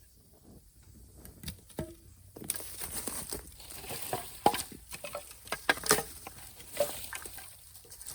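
Irregular crackling and snapping of dry material: a few clicks at first, then a busy run of crackles and sharp snaps from about two and a half seconds in.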